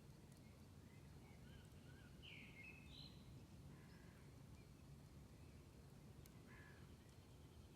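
Near silence: faint outdoor ambience with a low steady rumble and a few distant bird calls in the first half and again near the end.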